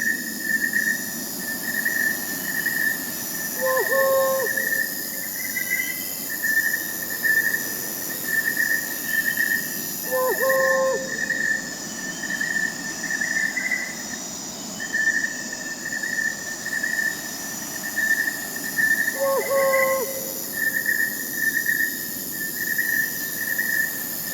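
Crickets chirping steadily in a continuous pulsing chorus, with fainter high-pitched insects above. An owl gives a short hoot three times, several seconds apart.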